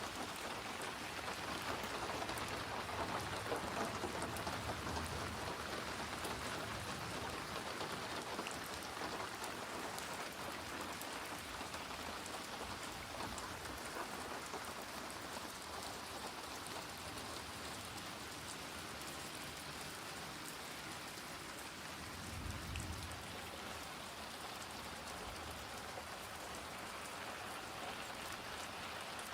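Steady rain falling and pattering on a surface, an even hiss of drops throughout. A brief low rumble rises under it about three-quarters of the way through.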